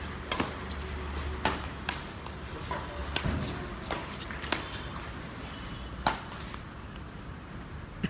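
Badminton rally: sharp pops of rackets striking the shuttlecock, about a second or so apart at an uneven pace, with lighter knocks and shuffles of footwork on the indoor court; the sharpest hit comes about six seconds in.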